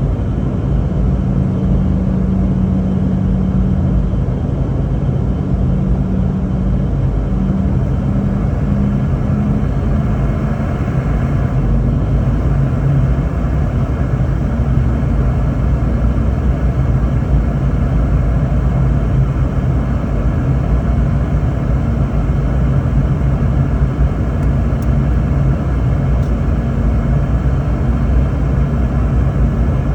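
Steady cabin drone of a Boeing 717-200 in flight, heard from inside the cabin: a low rumble with a few steady hums from its tail-mounted Rolls-Royce BR715 jet engines.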